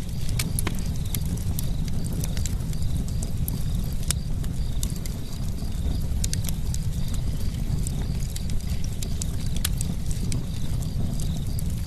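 Campfire burning: a steady low rumble of flames with frequent, irregular sharp crackles and pops from the burning wood.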